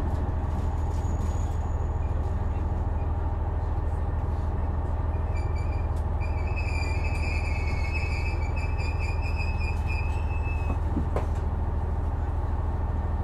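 JR West KiHa 126 series diesel railcar running, heard from inside the car: a steady low engine and running drone. From about five seconds in, a high thin squeal lasts about five seconds, and a sharp click comes about a second after it ends.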